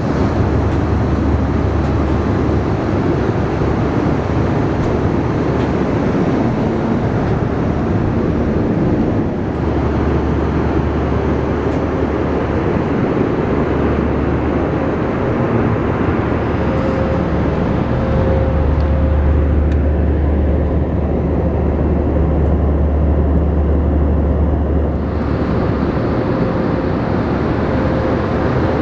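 Steady cabin noise inside an Airbus A318 airliner: the jet engines and airflow make a constant rush with a faint steady hum. A deep rumble under it weakens about nine seconds in and again near the end, then returns.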